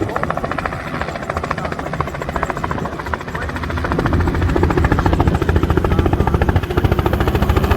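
Helicopter running, its rotor giving a fast, even beat over the engine, growing louder about halfway through.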